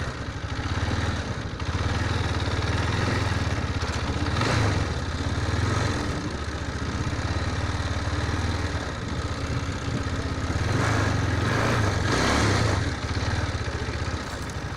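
Motorcycle engine running with a steady low throb, swelling briefly about four seconds in and again near the end.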